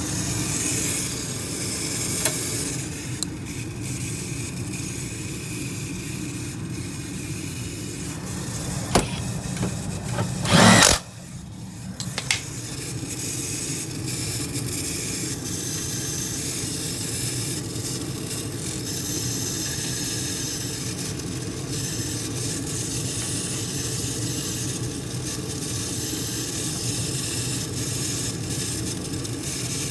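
Furnace draft inducer motor running with a steady, rough grinding noise, the sign of a failing inducer motor that needs replacing. There is a brief loud burst about eleven seconds in, then the grinding carries on.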